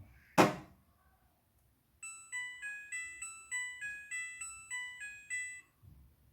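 A sharp thump about half a second in, then a Midea front-loading washing machine plays its electronic tune: a quick melody of about a dozen clear beeping notes lasting some four seconds.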